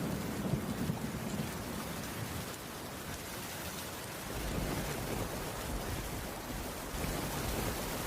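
Heavy rain falling steadily, with a low rumble that swells near the start and again from about halfway through.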